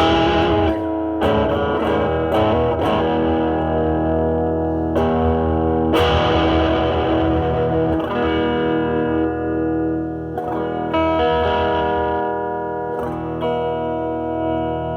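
Semi-hollow electric guitar played through a Nobels ODR-1 overdrive pedal into a Marshall Valvestate amp, with overdriven chords and notes struck every second or few and left to ring out.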